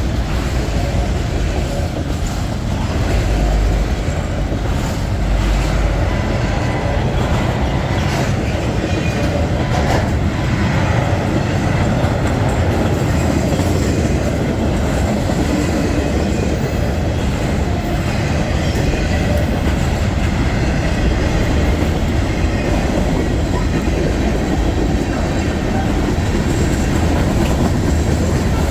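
Freight train cars rolling past at close range: a steady, loud rumble of wheels on rail with clicks over the rail joints.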